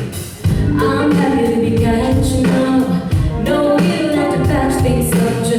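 Live song performance: voices singing a melody over steady instrumental accompaniment.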